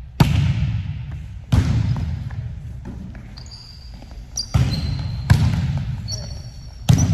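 Volleyball being struck during a rally in an echoing gym: five sharp hits, each ringing off in the hall. Short high squeaks come between the later hits.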